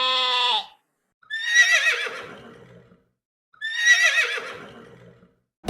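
Animal calls: a short steady call at the start, then two high, quavering whinny-like calls, each about a second and a half long.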